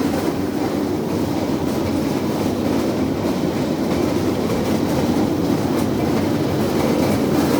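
Steel wheels of a pedal-powered rail bike rolling steadily along railway track, making a continuous rolling noise on the rails.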